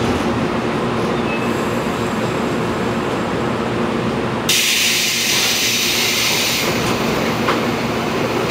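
Interior of a JR Kyushu 415 series 500 subseries electric train creeping to a stop, a steady hum underneath. About halfway through comes a sudden loud hiss of compressed air lasting about two seconds, from the air brakes and pneumatic door gear as the train halts and the doors open.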